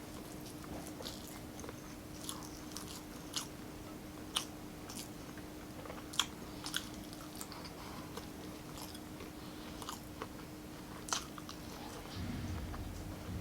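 Close-miked chewing and biting of food: scattered wet mouth clicks and smacks over a faint steady hum. A low rumble comes in near the end.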